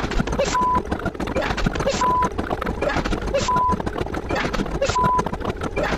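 A short sound clip looped about every one and a half seconds. Each repeat holds a brief steady high beep over a busy, noisy clatter.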